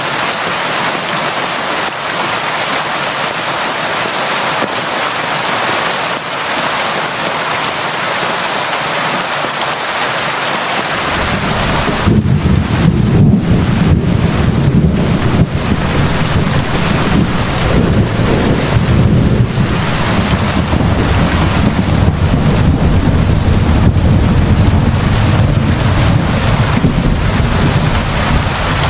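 Steady heavy rain falling, an even hiss. About eleven seconds in, a deep low rumble of thunder rolls in and keeps rumbling under the rain.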